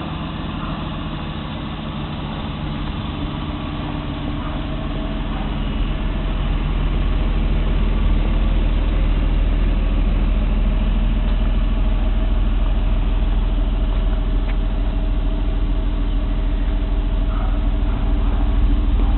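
Toyota Supra's 3.0-litre twin-turbo straight-six idling steadily, growing louder about a third of the way in.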